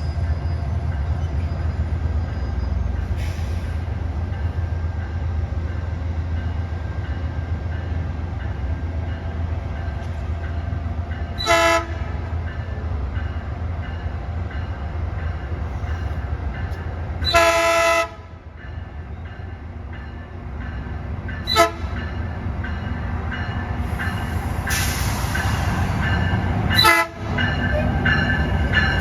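A train's low, steady rumble, with its multi-tone air horn sounding five times: a short blast, then a longer one a little past halfway, after which the rumble drops, then three more short blasts toward the end.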